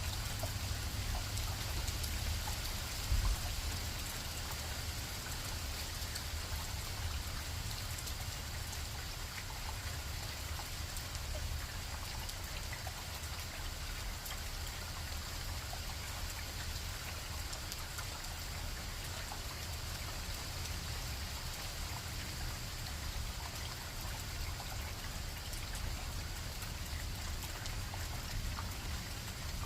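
Rain falling: a steady hiss with many small scattered drip ticks, a low rumble underneath and one brief thump about three seconds in.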